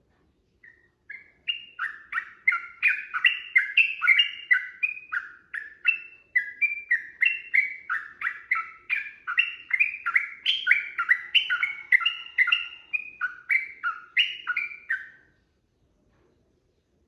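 Yellow-vented bulbul (trucukan) singing a long, unbroken run of quick chattering notes, several a second. It starts just under a second in and stops about two seconds before the end.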